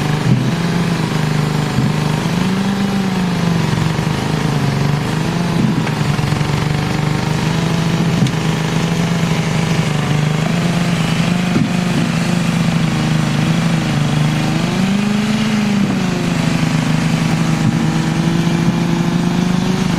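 A machine's engine running steadily, its pitch swelling up and back down a few times as it is revved or loaded, with a few short knocks.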